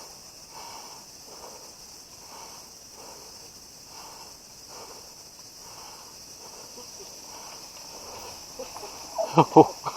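Steady high drone of insects, with soft sounds repeating about once a second. About nine seconds in, a quick run of sharp knocks and clacks.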